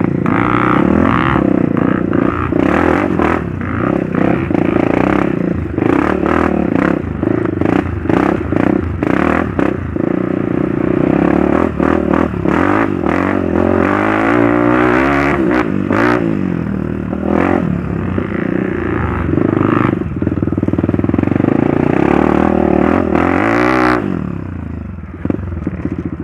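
Trail motorcycle engine running under way over rough ground, with frequent clatter and knocks from the bike. The revs rise and fall a few times, then ease off near the end.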